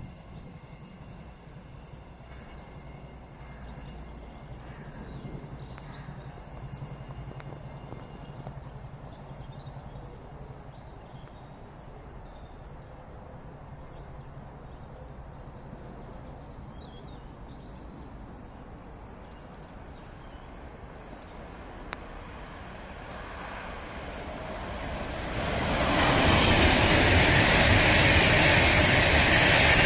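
Birds chirping over quiet station ambience, then, in the last few seconds, the loud, steady rush of a Pendolino electric train running through at speed.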